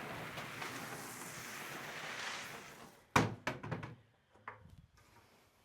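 A rushing scrape lasting about three seconds, then a quick run of sharp knocks and clanks, with a few faint clicks after.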